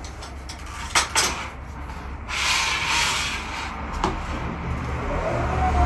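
Household handling sounds: a few light knocks and a rubbing, hissing noise, with a low hum building near the end.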